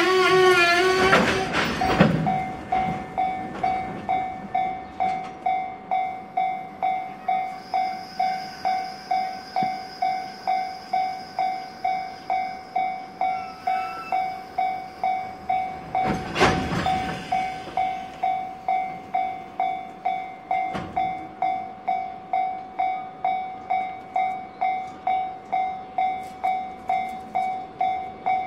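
Container freight train of Koki wagons rolling past, its wheels clicking over the rail joints. Over it a level-crossing warning bell rings steadily, pulsing about one and a half times a second.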